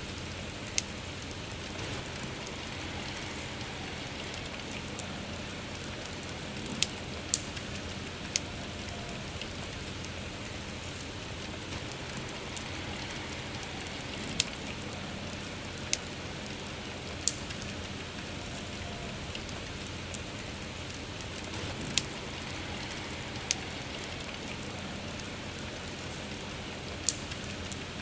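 Steady soft rain with a wood campfire, whose sharp crackling pops stand out every second or two, about a dozen of them, the loudest sounds.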